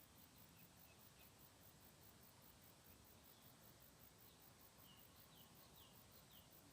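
Near silence: faint outdoor background with a few faint, short, high falling chirps, four in quick succession near the end.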